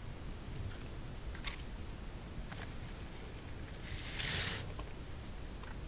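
Quiet handling of kit parts: a few light clicks, then a brief rustle about four seconds in, over a faint steady high-pitched whine and low hum.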